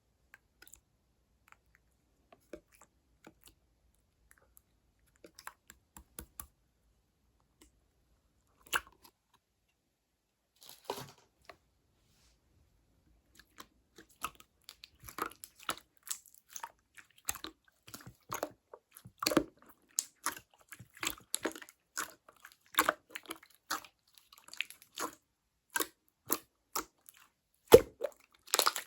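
Clear slime being handled, giving short sticky clicks and pops: a few scattered ones at first, then a dense, irregular run of them from about halfway through.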